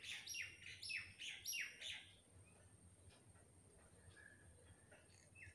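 A wild bird calling in the background: a quick run of about five high notes, each sweeping downward, in the first two seconds, then a few faint chirps and a short note near the end.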